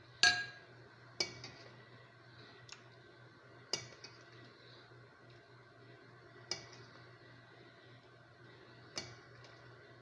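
Kitchen utensils clinking against cookware during plating: sharp, briefly ringing clinks every one to three seconds, about six in all, over a faint steady low hum.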